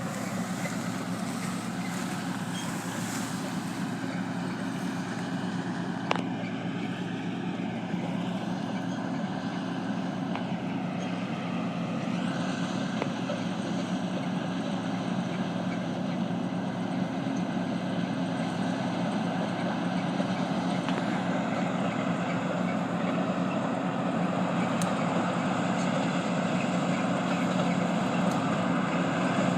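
Heavy harvest machinery running steadily: a continuous engine drone with a low hum, with a single sharp click about six seconds in and the sound growing a little louder in the second half.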